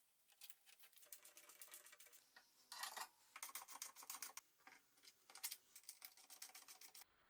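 A faint, rapid run of quick clicks, several a second, in bursts, stopping abruptly near the end.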